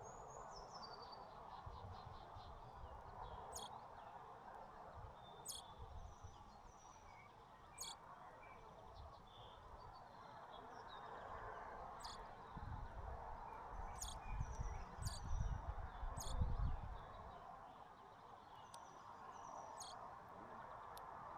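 Small songbirds chirping, short high calls scattered throughout, with sharp clicks now and then over a steady background noise. A low rumble swells for a few seconds past the middle and is the loudest part.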